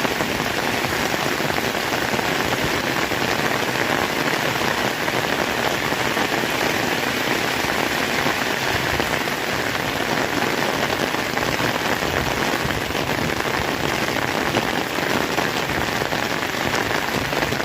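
Heavy rain pouring steadily, a dense unbroken hiss of drops hitting the ground and surfaces.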